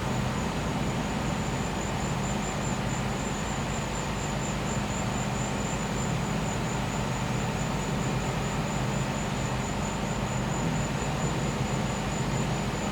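Gas-powered generator running with a steady engine hum, while crickets trill in a continuous high, rapidly pulsing chorus.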